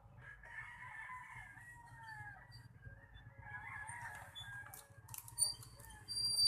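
A rooster crowing, two long wavering calls, followed near the end by a sudden, steady high-pitched ringing tone.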